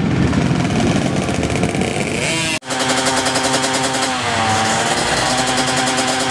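Racing motorcycle engines at high revs. The pitch climbs, then breaks off abruptly about two and a half seconds in. Another engine note follows and holds steady, with a brief dip in revs before picking up again.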